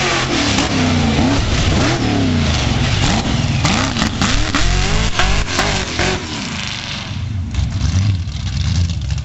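Monster truck engine revving hard, its pitch rising and falling over and over, settling into a steadier, lower running after about six seconds.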